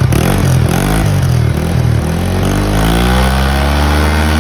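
Yamaha Mio 125 scooter's single-cylinder engine through an MTRT V3 'Silent Killer' power pipe exhaust, revved during a sound check. It holds fairly steady revs, then the pitch climbs through the last couple of seconds.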